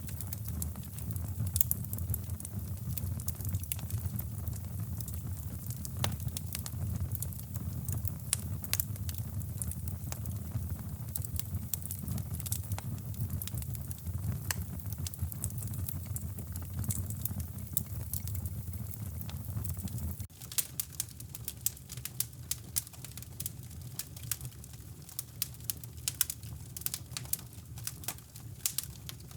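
Fire crackling in a fireplace: irregular sharp pops and snaps over a low, steady rushing noise. The low rushing drops away suddenly about two-thirds of the way through, while the crackling goes on.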